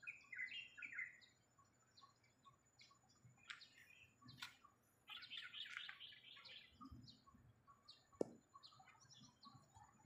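Faint chirping of several small birds, with clusters of quick high chirps near the start and again from about five to seven seconds in, over a soft repeated note. A single sharp click just after eight seconds.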